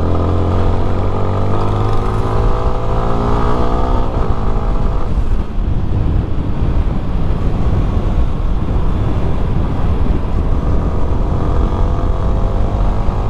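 Yamaha Sniper 155 motorcycle's single-cylinder engine under way, its note climbing as it accelerates for about four seconds before breaking off, then running under a steady rush of wind noise, with the note climbing again near the end.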